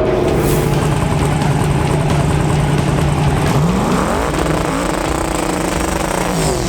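Drag race car engine running at a steady pitch, then revving up sharply about three and a half seconds in and holding the higher pitch, with another rise beginning near the end.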